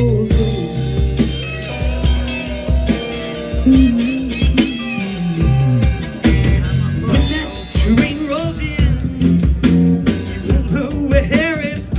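A rock band playing a blues-rock song, with guitar lines bending in pitch over bass and drums.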